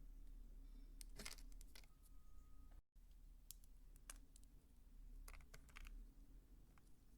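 Faint, scattered clicks and crackles of bar soap being handled close up, over a steady low hum, with a brief cut to total silence about three seconds in.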